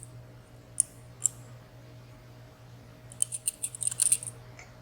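Lock pick working the sliders of a WSW W10 high-security padlock: small sharp metallic clicks, two single ones in the first second or so, then a quick run of a dozen clicks about three seconds in as the sliders are probed and set.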